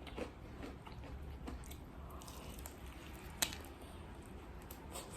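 Chewing a mouthful of crispy fried chicken, faint and soft, with one sharp click about three and a half seconds in.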